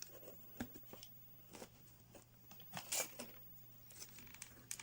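Faint handling of small cardboard pieces: a few soft taps and crinkles, the loudest about three seconds in, over a low steady hum.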